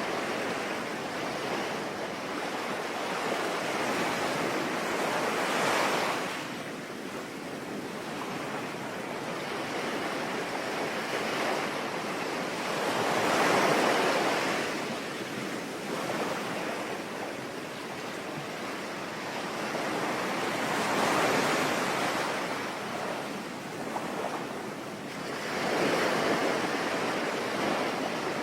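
Ocean waves breaking and washing ashore in slow surges, four times, about every seven seconds, over a steady hiss of rain.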